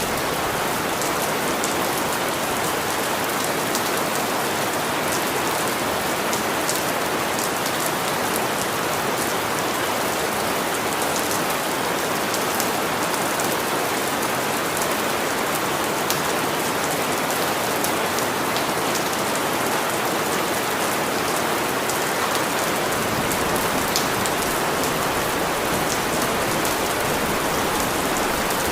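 Steady rain falling, with scattered individual drops ticking sharply through the even hiss.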